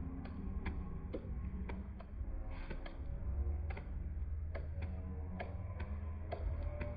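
Toy fountain firework spraying sparks, with sharp irregular crackling pops over a low steady rumble.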